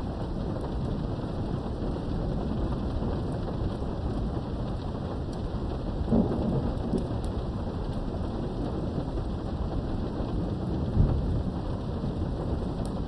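Steady rain with a continuous low rumble of thunder, heard through a window. The rumble swells louder about six seconds in and again briefly near the end, with faint scattered drop ticks over the top.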